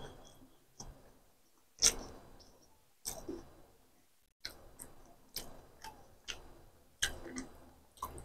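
Close-up mouth sounds of a person chewing egg masala: short, wet smacking clicks at an irregular pace, about one every half second to a second, the loudest about two seconds in.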